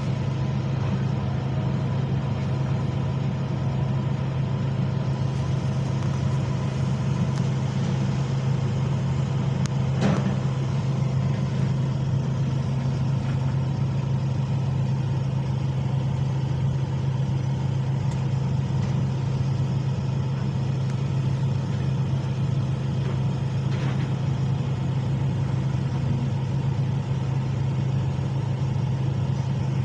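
Heavy diesel engine of an excavator running steadily, with a single sharp knock about ten seconds in.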